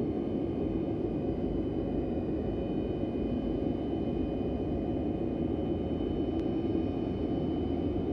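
Antonov An-124 Ruslan's Progress D-18T turbofan engines running steadily: a dense rumble with a high, steady turbine whine over it.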